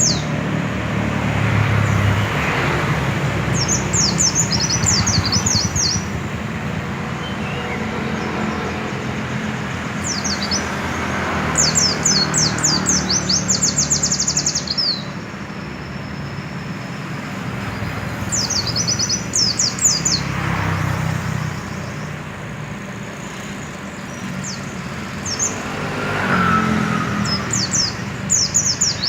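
Pleci (white-eye, Zosterops) singing in bursts of rapid, high twittering trills, phrase after phrase a few seconds apart, over a steady low background rumble that swells a few times.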